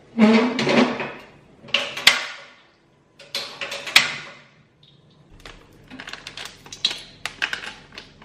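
Cooking in a frying pan as spice paste goes into hot oil to be sautéed. There are three loud noisy bursts that die away over the first four seconds, then a run of quick scraping and clicking from a spatula stirring in the pan.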